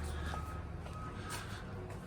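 A vehicle's backup alarm beeping at one steady pitch, a couple of times, over the low, steady rumble of an engine running.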